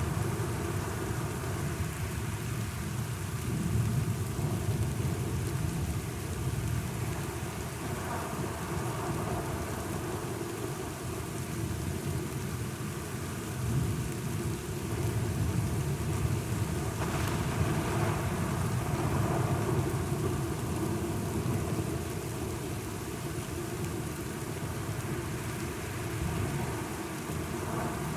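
Steady rain falling in a thunderstorm, with low rolls of thunder that swell and fade now and then, most clearly about four seconds in and again midway.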